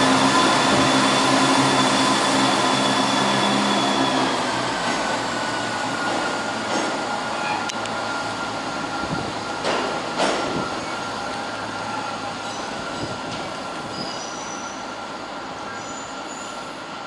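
Class 170 Turbostar diesel multiple unit running slowly on curved station track, its wheels squealing with a thin, steady high tone. The engine hum drops away about four seconds in, a couple of clacks follow around ten seconds in, and the whole sound fades gradually.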